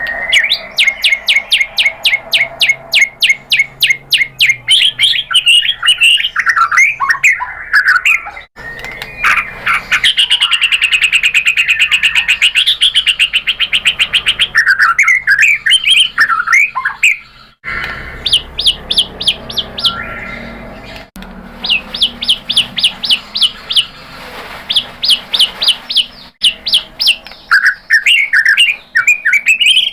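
White-rumped shama singing: fast runs of repeated sharp notes and a long rapid trill, alternating with varied warbled phrases. There are a few abrupt breaks where the recording jumps.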